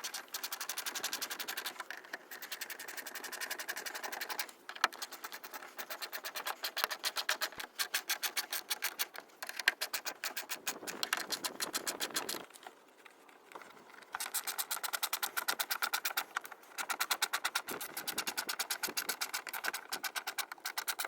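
A fastening tool clicking rapidly, about ten clicks a second, in runs of several seconds with short pauses, as splash-guard bolts are driven in.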